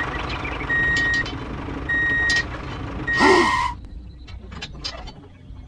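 Vehicle reversing alarm beeping three times, a steady high tone about a second apart, over a running motor hum; the last beep is cut off by a short loud hiss. The hum then stops, and light clicks follow as the toy tractor's rear hitch link is handled.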